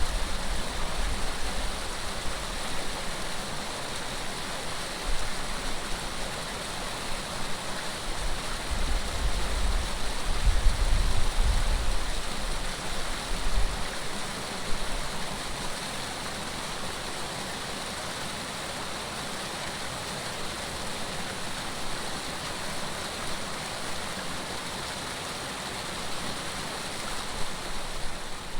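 Flowing water rushing steadily, with gusts of wind buffeting the microphone during the first half.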